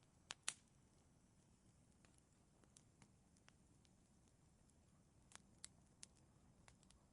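Wood fire crackling: scattered sharp pops and snaps over a faint low hiss, the loudest two close together near the start.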